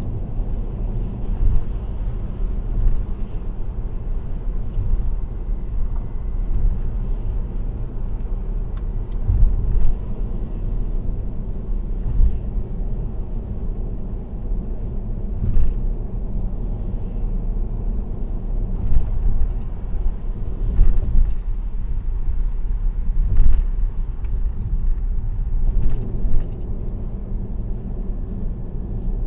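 Steady low road and tyre noise of a car cruising on an expressway, picked up by a dashcam inside the cabin, with several brief thumps every few seconds.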